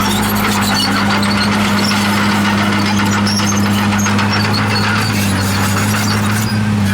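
Komatsu D51PX crawler bulldozer working: its diesel engine runs at a steady drone while the steel tracks give off scattered high squeals.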